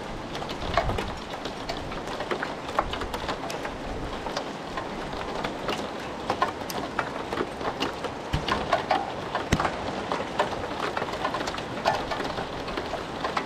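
Thunderstorm rain falling steadily, with many close drops ticking sharply on a nearby surface.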